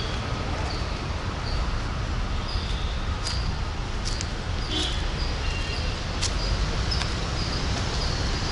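A bird repeating short, high, falling chirps about every two-thirds of a second, over a steady low rumble, with a few faint clicks.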